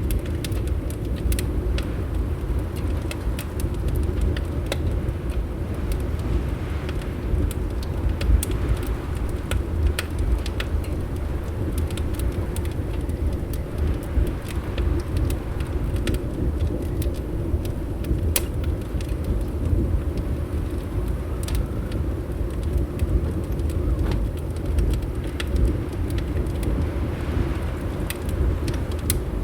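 Wood fire crackling, with scattered sharp pops, over a steady low rumble of winter wind against the windows.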